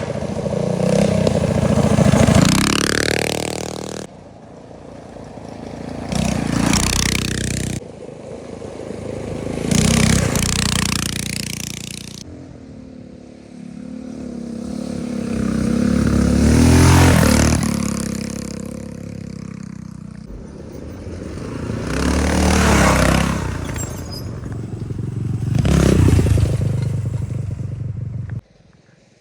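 Minibike engines passing one after another, each swelling louder as it nears and fading as it goes, revving up with a rising pitch in places. The sound breaks off abruptly a few times.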